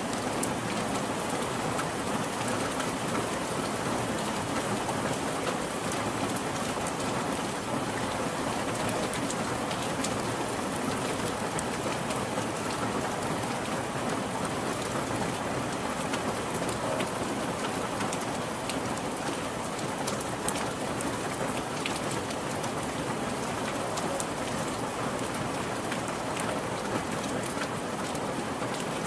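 Steady rain falling on a surface, an even hiss with many small drop taps scattered through it.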